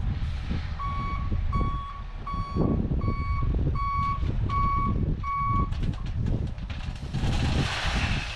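Dump truck reversing alarm beeping seven times, evenly spaced about two-thirds of a second apart, over the low rumble of the truck's diesel engine. Near the end there is a short burst of hissing.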